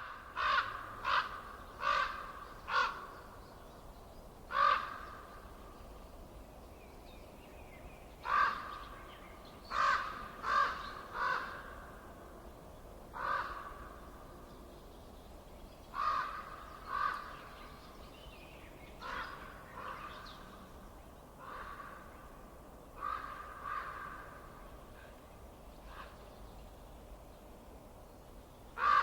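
A bird calling repeatedly with harsh calls of about half a second each, some single and some in runs of two to four, varying from loud to faint, over a faint steady hiss.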